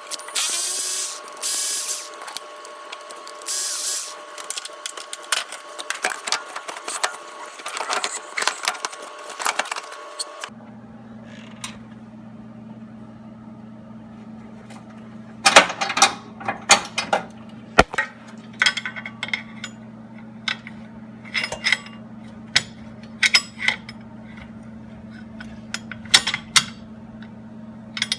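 Shop work on metal parts: tools clicking and clanking, with a steady whine and hissing bursts in the first stretch. After an abrupt change about ten seconds in, scattered metallic clinks and knocks play over a steady low hum.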